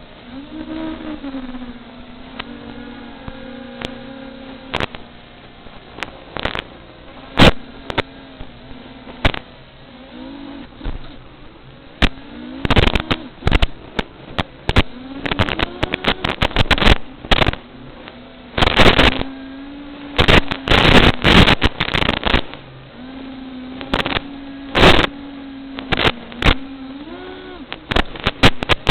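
FPV quadcopter's motors and propellers buzzing, the pitch rising and falling with the throttle. Many sharp crackles and pops cut across it, thickest in the second half.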